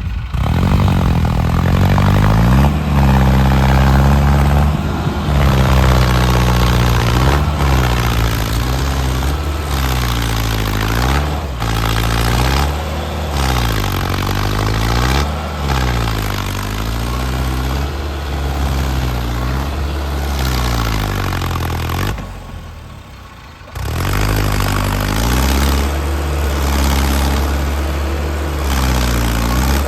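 Tractor diesel engine revving up and down over and over, every couple of seconds. There is a short lull about two-thirds of the way through, then the engine runs steadier.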